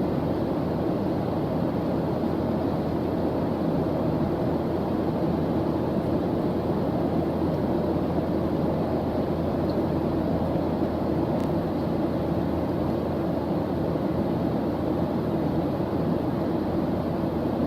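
Steady white-noise sound track: an even, unchanging hiss with most of its weight low and deep, no rhythm and no changes.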